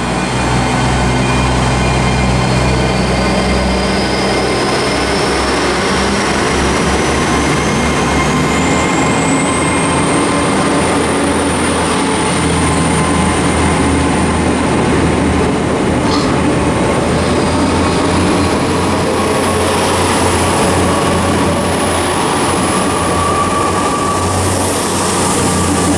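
Great Western Railway Class 802 bi-mode trains running on their diesel engines at the platform. A high whine climbs steadily in pitch over the first ten seconds or so as a train pulls away and gathers speed, then holds steady over the low engine drone.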